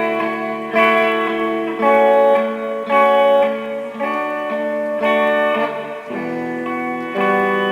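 Instrumental guitar passage in a song, with no vocals: plucked notes and chords changing every second or so, moving to a lower chord about six seconds in.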